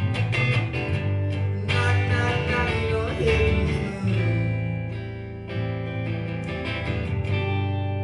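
Guitar strumming chords through a PA, each strum ringing out and fading before the next, easing off to a sustained chord near the end.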